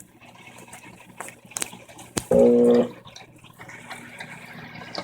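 Brastemp 15 kg washing machine spraying water into the drum at the start of the spin cycle, a steady hiss of running water. About halfway through, a short loud tone sounds over it.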